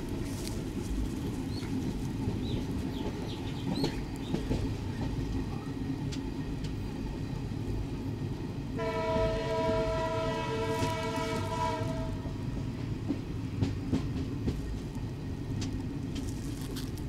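Train running on the track, heard from a coach of the moving train: a steady rumble of wheels with scattered clicks over the rail joints. About nine seconds in a train horn sounds one steady blast of about three seconds.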